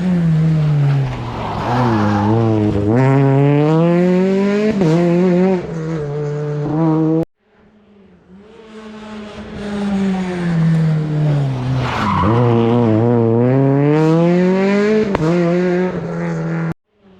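Rally car engines at full load going by on a stage, twice in succession. Each time the revs fall for a moment as the car slows, then climb hard in steps through the gears. Each pass cuts off abruptly.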